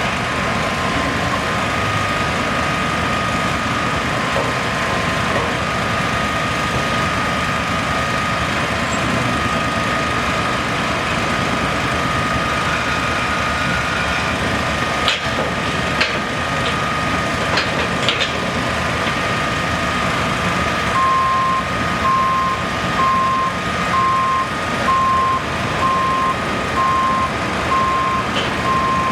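Heavy construction vehicle running steadily, with a few sharp knocks around the middle. About two-thirds of the way through, a reversing alarm starts beeping about once a second: the vehicle is backing up.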